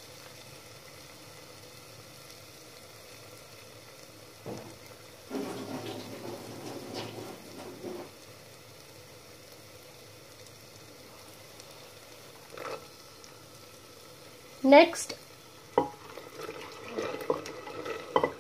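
Onion-tomato masala gravy sizzling gently in an open pressure cooker, with a few brief knocks and rustles. Near the end, soaked kidney beans are tipped in from a bowl with a rattle.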